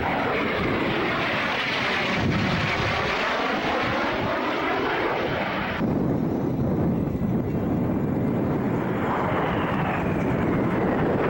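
Airplane engine noise from an aircraft passing overhead, loud and steady, with the sound sweeping in tone as it goes by. About halfway through it changes abruptly to a duller roar, and a thin falling whine follows near the end.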